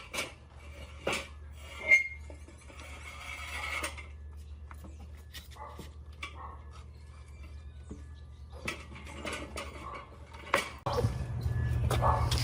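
Scattered sharp clinks and knocks of hard objects being handled, the loudest about two seconds in. Near the end a steady low hum comes on and stays.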